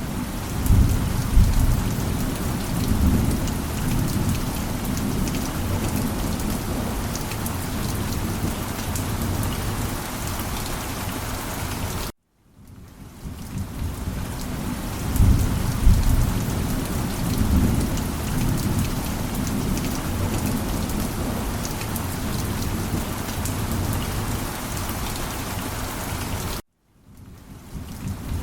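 Steady heavy rain falling, with rolling thunder rumbling about a second in and again about halfway through. The whole sound cuts out abruptly for a moment twice, then fades back in.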